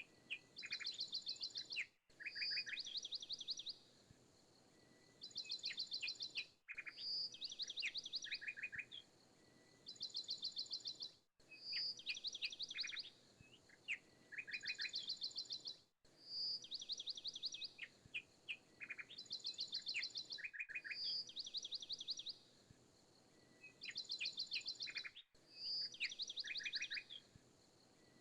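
Looped recording of birdsong: the same few seconds of high bird chirps and rapid trills repeat about every four and a half seconds, each repeat starting after a brief dropout.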